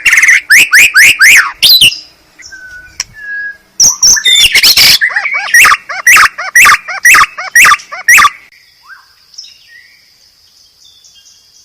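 White-rumped shama song from a bird-tutor recording: two loud runs of rapidly repeated sweeping notes, the first about two seconds long and the second from about four seconds to eight, with a few soft whistles between them. After that, only faint high notes.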